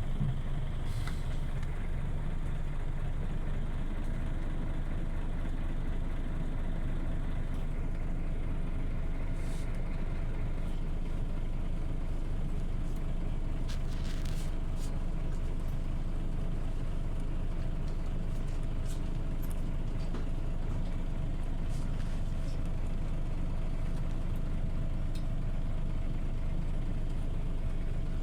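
Scania OmniLink city bus running steadily, heard from inside the cabin: an even low engine and road rumble, with a faint steady whine coming in about a third of the way through and a few light rattles.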